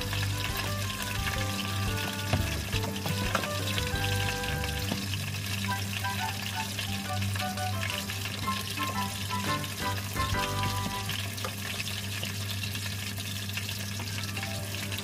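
Food sizzling and crackling as it fries in hot oil, a steady hiss full of fine pops, with background music playing over it.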